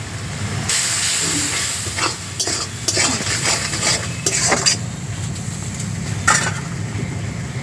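Onion and spice masala sizzling in a steel kadai as a metal spatula stirs and scrapes it, with several short scraping strokes. The sizzle is loudest in the first half. A steady low hum runs underneath.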